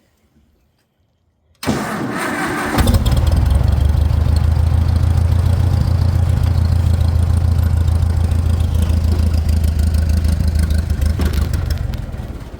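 Farmall 400 tractor's four-cylinder engine cranked by its starter, catching after about a second and running with a steady low rumble, then dying near the end, which the owner takes for fuel starvation.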